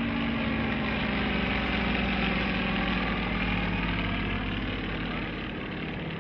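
Propeller engines of two Yakovlev trainer aircraft flying past in formation, a steady drone that swells and then fades as its pitch sinks slightly.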